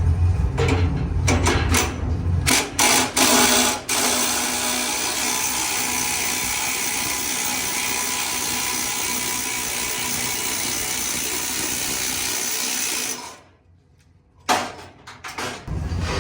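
A power tool started in a few short bursts, then running steadily for about nine seconds before stopping suddenly, with a few clicks after. A low hum is heard during the first couple of seconds.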